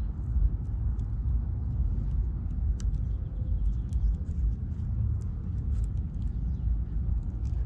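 Steady low wind rumble buffeting the microphone on open water, with faint scattered ticks.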